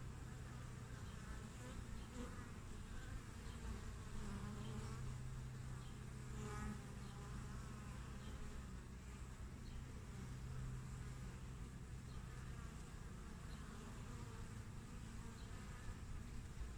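Honeybees buzzing at the hive entrance: a steady low hum of many bees, with one bee flying close past about six and a half seconds in.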